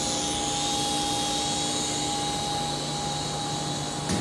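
Small toy RC helicopter's electric motor and rotors whirring steadily in flight, a thin steady whine over an even hiss. A short click comes right at the end.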